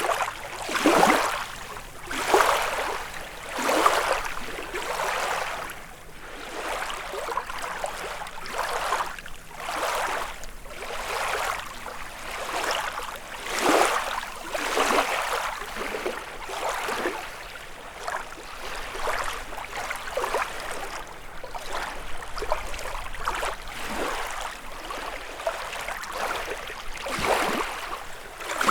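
Small lake waves lapping and splashing onto the shore, one about every one to one and a half seconds, some louder than others.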